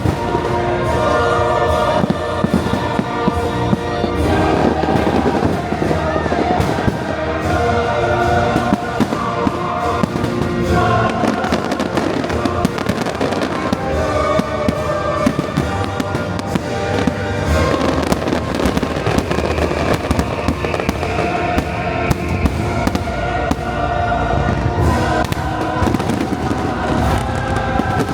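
Fireworks bursting in quick succession, dense and continuous, over a loud orchestral and choral show soundtrack.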